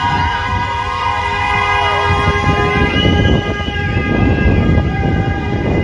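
Many vehicle horns, truck air horns among them, blaring at once in long held blasts, with rising and falling siren-like wails over them and engine rumble underneath.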